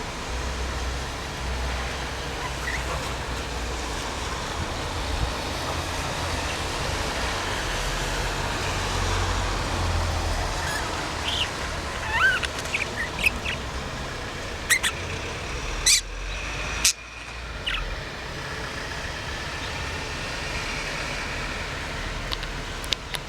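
Pet budgerigar giving a few short chirps about halfway through, with several sharp clicks and knocks around them, over a steady low rumbling background noise.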